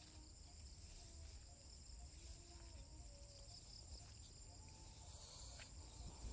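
Faint, steady high-pitched trill of insects, crickets, chirping continuously over a low background rumble.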